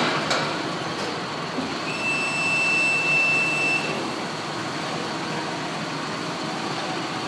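Farm machinery running steadily as the last load of grain comes into the grain store, with a thin high whine for about two seconds near the middle.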